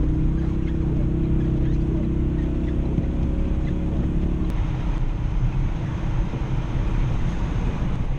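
Ford Focus RS engine pulling steadily while the car ploughs through deep snow. About halfway through there is a click and the steady engine note drops away into a rough low rumble of tyres and snow under the car.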